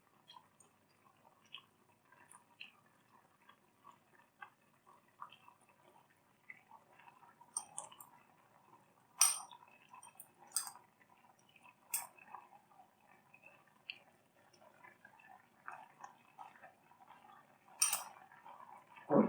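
Scattered light clinks and taps of utensils against a pot and dishes, with faint small ticks between them.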